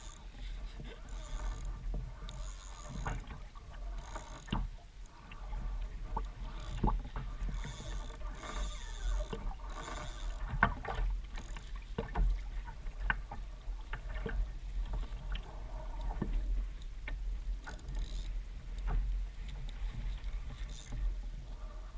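Water lapping and splashing around an Ocean Kayak Trident 4.3 sit-on-top kayak, with scattered knocks and clicks and a steady low rumble of wind on the microphone.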